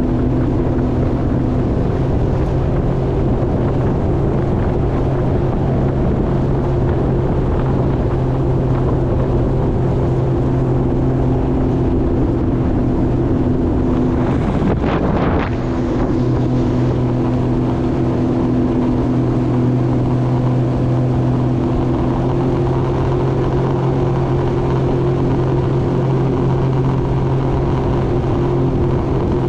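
Jet ski engine running at a steady speed, its pitch held constant, with a brief rushing disturbance about halfway through.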